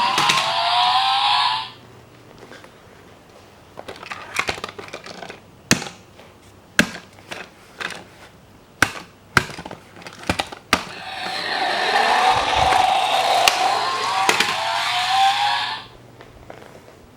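Toy sports car's electronic engine-and-exhaust sound effect revving with a rising pitch, playing twice: once at the start and again from about midway. Between the two plays come a run of sharp plastic clicks and taps.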